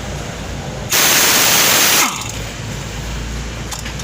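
A burst of compressed-air hiss from a pneumatic tool, lasting about a second and stopping abruptly, over a steady low hum.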